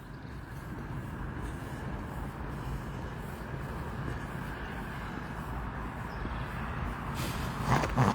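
Steady outdoor background noise with a low rumble, and a few brief louder sounds near the end.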